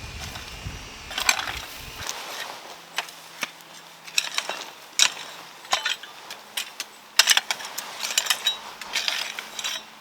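Irregular sharp knocks, crunches and scrapes, a few to several a second, with a low rumble underneath that cuts off about two seconds in.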